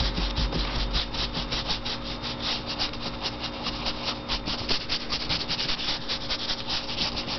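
Paintbrush scrubbing paint onto watercolor paper in quick back-and-forth strokes, about five a second.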